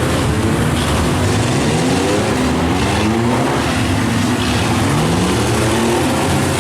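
Several compact trucks' and vans' engines revving up and down at once during a demolition derby, their pitches rising and falling over one another.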